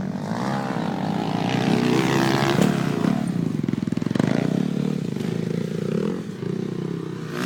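Motocross dirt bike engine revving and changing pitch as the bike rides the track. It grows louder toward the middle and then eases off.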